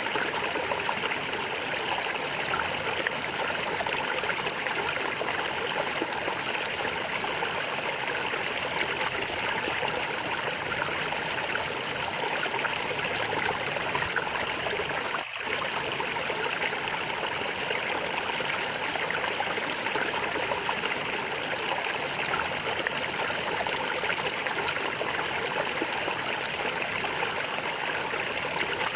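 Stream water gurgling and trickling steadily, with one momentary drop in level about halfway through.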